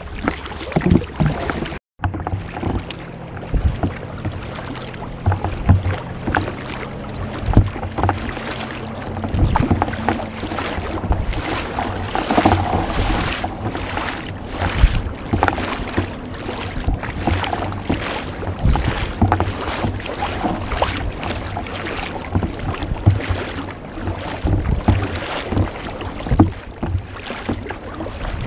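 Kayak paddling: repeated paddle strokes dipping and splashing in the water, with dripping between strokes. The sound cuts out briefly about two seconds in.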